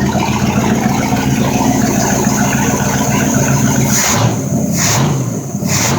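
Mercruiser 5.7-litre V8 marine engine idling steadily with its transmission in neutral. Near the end come three short hissing sounds, about a second apart.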